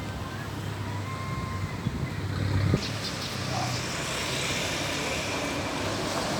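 Road traffic: a motor vehicle's engine hum for the first few seconds, giving way about three seconds in to a steady wash of noise.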